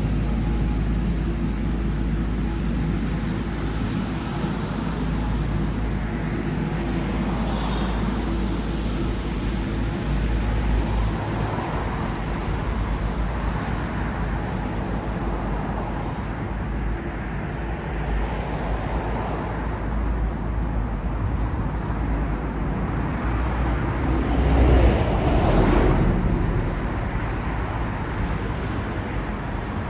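City road traffic: a steady rumble and hiss of passing cars, with one vehicle passing louder and closer about 25 seconds in.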